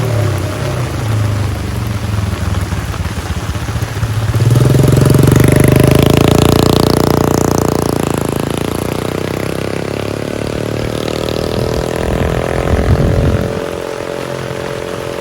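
A motor vehicle engine passing close by in the rain: it grows suddenly louder about four seconds in, peaks, then slowly fades away, over the steady hiss of heavy rain.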